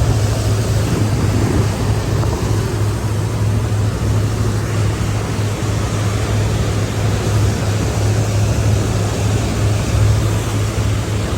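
Passenger boat's engine running with a steady low drone under a rush of water and wind noise.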